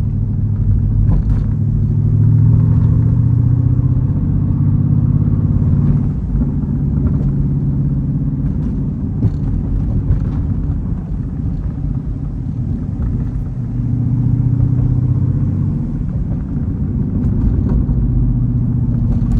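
Jeep Grand Cherokee Trackhawk's 6.2-litre V8, running without its blown supercharger, as the car drives along at moderate revs. The engine note swells and eases a few times.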